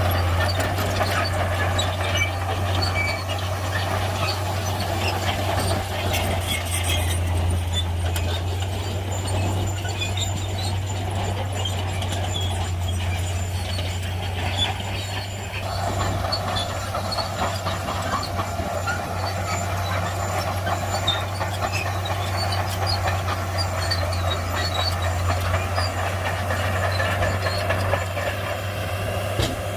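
Shantui crawler bulldozer's diesel engine running steadily under load while pushing soil, with scattered high squeaks and clanks from its steel tracks. The engine's mid-pitched note drops back for several seconds before picking up again about halfway through.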